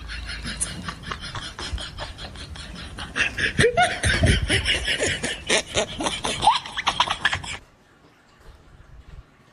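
Laughter, loudest in the middle, which cuts off abruptly about seven and a half seconds in.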